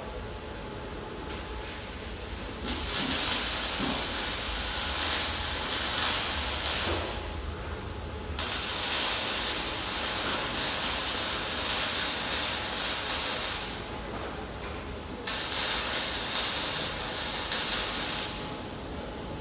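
A loud hissing noise from a workshop tool, in three spells of about three to five seconds each, each starting and stopping abruptly.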